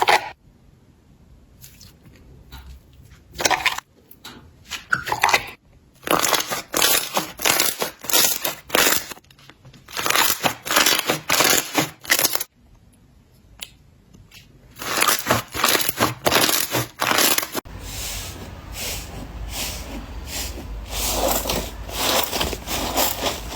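Slime being squeezed and pressed, giving bursts of dense crackling and popping clicks with short pauses between them. About 18 seconds in the sound changes, with a steady low rumble under the crackles.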